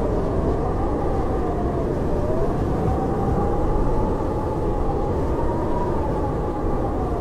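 Howling blizzard wind: a steady low rush with a whistling howl that slowly rises and falls in pitch, dipping near the middle and again near the end.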